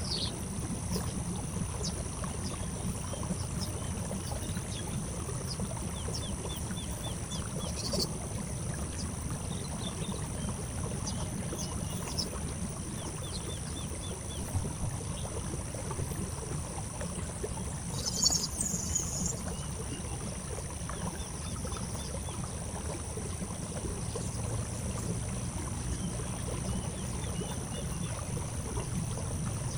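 Birds chirping faintly in short rapid series, with one louder call a little past halfway, over a steady low rumble and a constant high-pitched hum.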